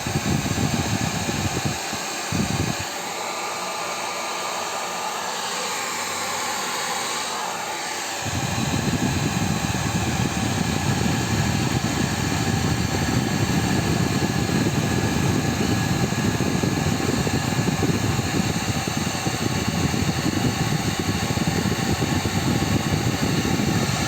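Xiaomi H300 hair dryer running on low heat and low fan speed, a steady blowing whir. About eight seconds in, a low rumble joins and it gets a little louder.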